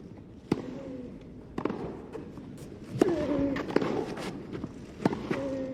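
Tennis ball struck back and forth by rackets in a rally, a sharp pock about every second, with short voice sounds from the court and a low background murmur.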